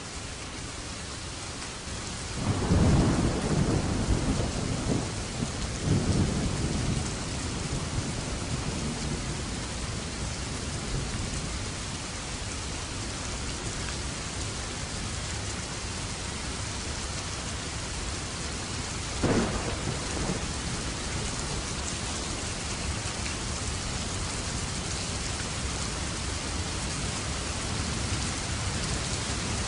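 Steady rain falling during a thunderstorm. About two and a half seconds in, thunder rumbles for several seconds, swelling again near six seconds. A sharp, short thunderclap comes a little past the middle, and the rumble builds again at the very end.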